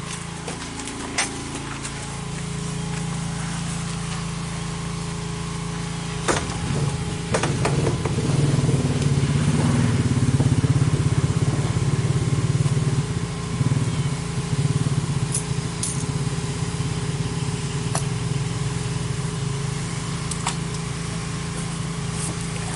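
A motor vehicle's engine running steadily, louder between about eight and thirteen seconds in, with a few sharp knocks early on.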